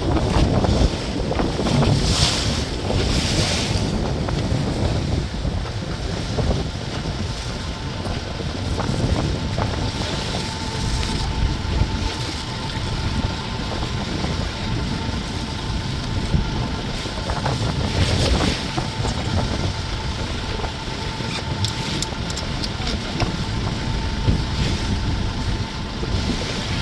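Tour boat under way at sea: its engine running steadily, with a thin steady whine coming in partway through, wind buffeting the microphone, and water splashing against the hull now and then.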